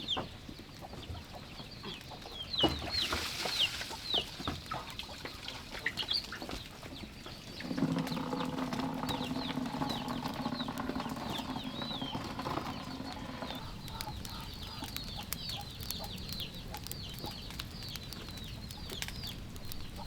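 Chicks peeping with short, falling chirps over and over, amid scattered light knocks. For about six seconds in the middle, a steady low hum sounds under them.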